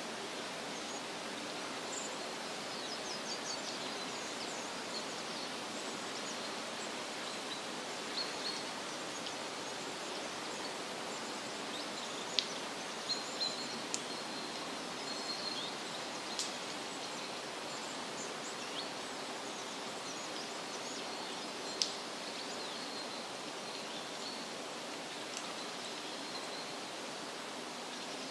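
Forest ambience: a steady, even rushing hiss with small birds chirping faintly and often. A few sharp ticks come in the middle.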